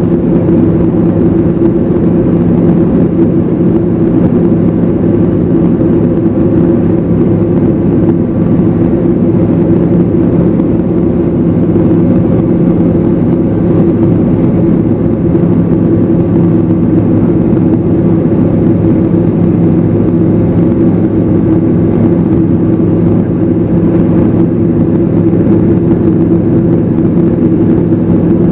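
Evektor SportStar light aircraft's Rotax 912 flat-four engine and propeller running steadily, a constant loud drone with no change in pitch.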